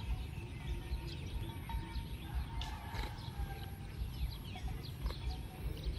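Outdoor ambience of birds calling: many short, quick, falling chirps and a few held whistled notes, over a low steady rumble.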